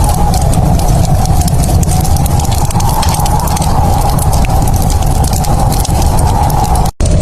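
Fireplace crackling: a steady low roar under many small sharp snaps and pops. The sound cuts out for an instant near the end.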